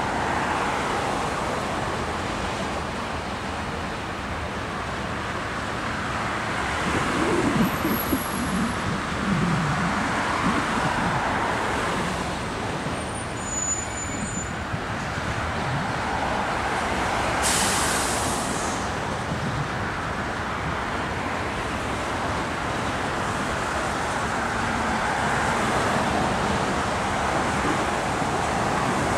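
BNSF coal train's hopper cars rolling past: a steady rumble of steel wheels on rail, mixed with city traffic, with a short hiss of air a little past the middle.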